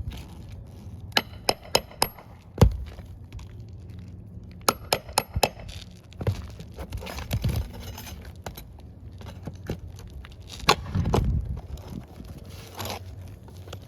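Sharp metal clinks and taps in short quick runs, with scraping in between, from shingles and their roofing nails being pried up.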